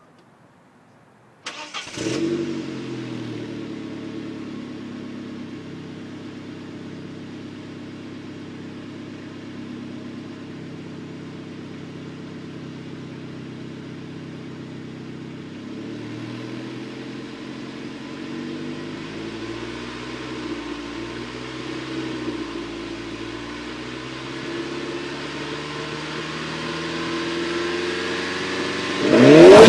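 Saab 9-3 Viggen's turbocharged 2.3-litre four-cylinder heard at the exhaust, starting about a second and a half in with a brief flare and then settling to a steady idle. Near the end it is revved sharply, the loudest part.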